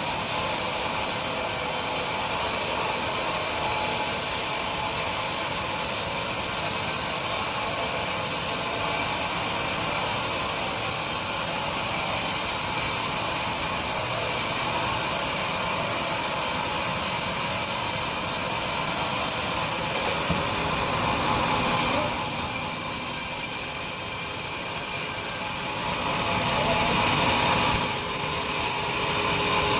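Large sawmill bandsaw cutting through a log: a steady rasping hiss over a machine hum. The sound dips and changes twice in the last ten seconds.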